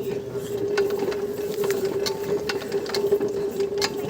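Small diesel-engined paddy machine running: a steady hum with irregular sharp mechanical clicks and clatter over it.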